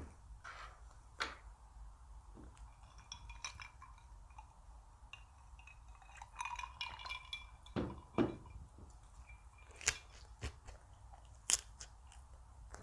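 Eating at a table: utensils clinking against ceramic dishes and glass, with short ringing clinks in two spells. Sharp taps and some chewing and crunching come between them.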